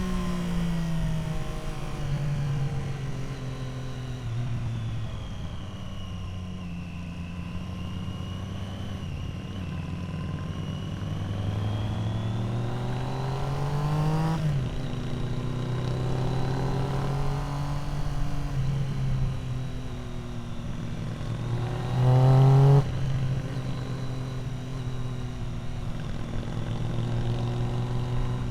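Triumph Street Triple R's three-cylinder engine running through an Arrow exhaust while riding. Its pitch holds steady, then climbs slowly and drops sharply about halfway through. About three-quarters of the way in there is a short, louder rev with quickly rising pitch.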